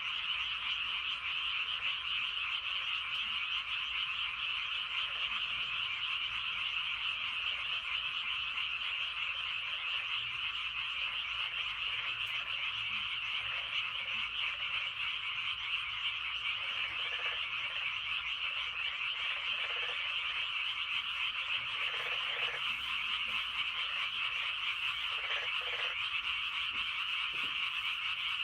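Dense, steady chorus of many frogs calling together, with a few separate lower calls standing out near the end.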